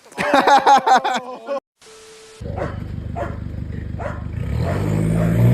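A dog barking rapidly and loudly for about a second and a half, cut off abruptly. Then a vehicle engine running with a low rumble, rising in pitch near the end.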